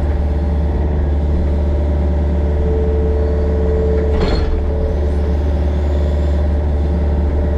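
Yanmar mini excavator's diesel engine running steadily with a deep hum, heard from the machine. A steady whine rises over it for a few seconds midway, with a brief knock about four seconds in.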